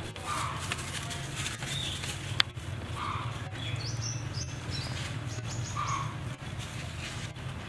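Small birds chirping in short high notes, over a steady low hum, with one sharp click about two and a half seconds in.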